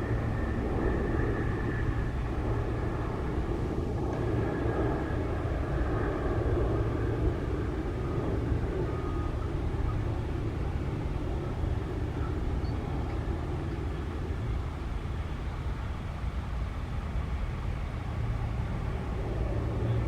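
Steady engine drone of propeller aircraft at a distance, with a faint high whine that fades over the first few seconds.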